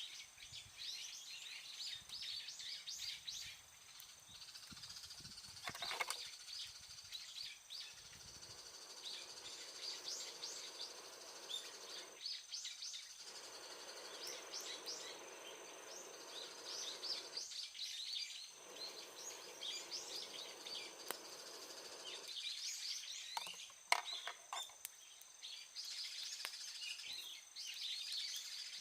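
Small birds chirping and twittering almost continuously, with a steady thin high tone running underneath.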